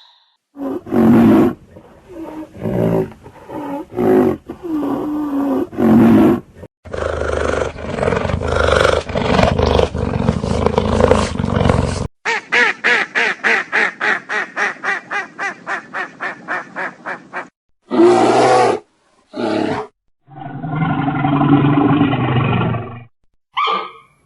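A run of different animal calls one after another: roaring and growling first, then a rapid pulsing call of about five pulses a second, then a few shorter calls.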